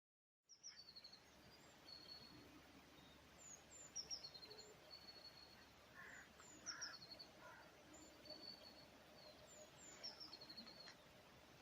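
A small songbird singing faintly. A quick phrase of high, descending chirps that ends on a short trill repeats about every three seconds, four times in all, over a faint outdoor hiss.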